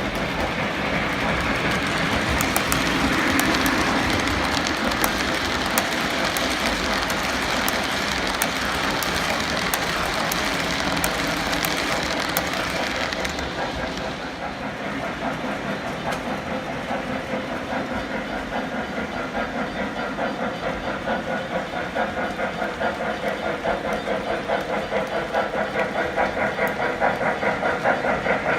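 Model train running on the layout's track, with sharp clicks through the first half. About halfway, the hiss fades and an even, quick pulsing takes over, growing louder near the end.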